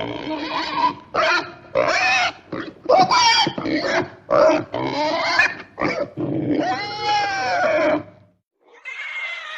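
Pigs grunting and oinking in a quick run of short calls, with one longer call about seven seconds in that rises and falls in pitch, then a brief pause and a quieter call near the end.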